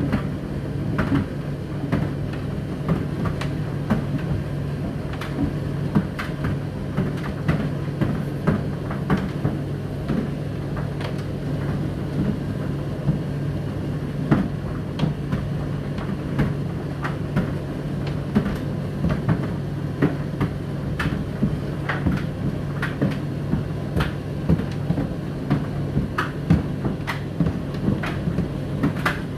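Indesit IDC8T3 condenser tumble dryer and Whirlpool dishwasher running at the same time: a steady motor hum under frequent, irregular clicks and knocks.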